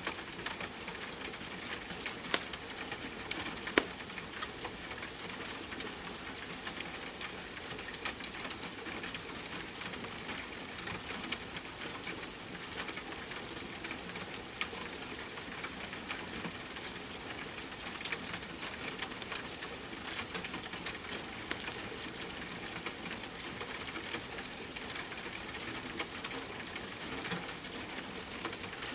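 Steady rain with the crackle and occasional pop of a wood fire: a constant hiss with scattered sharp clicks, two louder pops a few seconds in.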